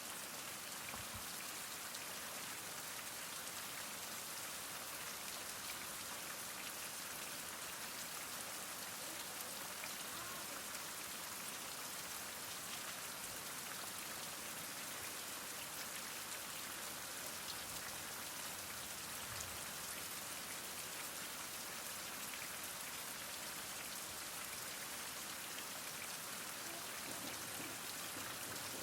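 Heavy rain falling steadily, a dense hiss of countless drops with fine patters of drops striking surfaces.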